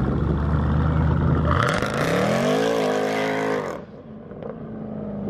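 Supercharged V8 Jeep Grand Cherokees launching from a standing start. A steady, held engine note for about a second and a half, then the engine pitch climbs hard under a loud rushing noise, which cuts off suddenly a little before four seconds in, leaving a quieter, lower engine sound.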